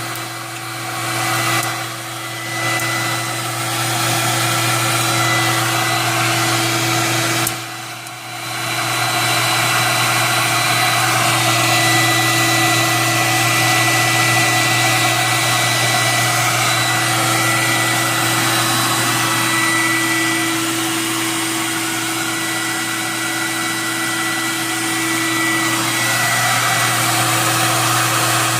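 Hot-air popcorn popper roasting coffee beans: its fan and heater run with a steady whirring hum and rush of air. The sound dips briefly about seven seconds in, then comes back at full strength.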